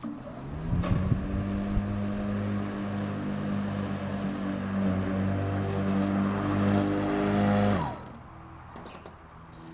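Electric motors of a lawn tractor converted to 24-volt electric drive, spinning up about half a second in, running steadily with a hum, then winding down quickly near the end.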